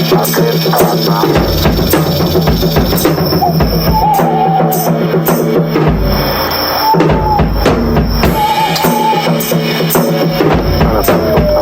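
Drum kit solo with dense, continuous strikes and bass drum, mixed with jungle sound effects; a short wavering high call rises over the drums a few times.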